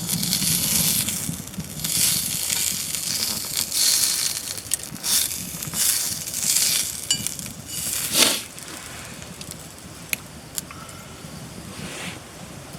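Food sizzling in a small cast-iron skillet over a wood campfire, swelling and fading every second or two, then dying down after about eight seconds, with a few sharp crackles from the fire near the end.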